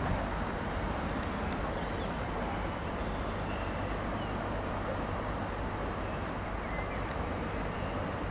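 Great Western Railway class 800 train running steadily as it pulls away, a low, even hum, with a few faint bird chirps.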